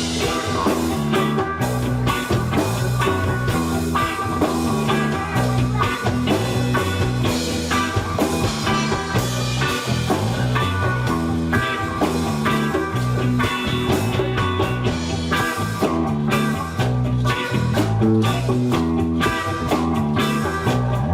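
Live band playing an instrumental passage: electric guitar over a repeating bass line and a steady drum beat.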